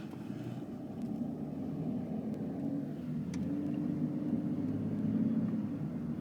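Car engine and tyre noise heard from inside the cabin while driving: a steady low hum that grows a little louder about four seconds in.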